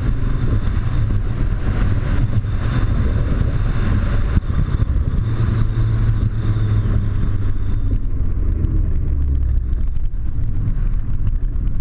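Nissan GT-R with an HKS aftermarket exhaust running at a steady low drone. A higher hiss over it fades out about two-thirds of the way through.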